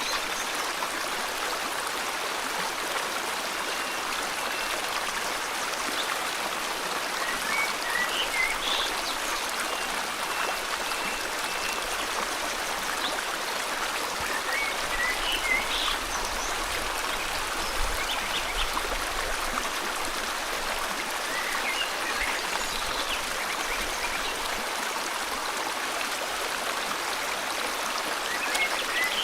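Steady rush of river water flowing, with birds calling every few seconds in short chirps and a couple of brief held notes.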